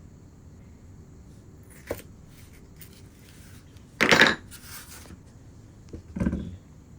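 Hand-work noises from sculpting clay: a light click, then a short, loud rasping noise about four seconds in with a softer one after it, and a dull knock near the end.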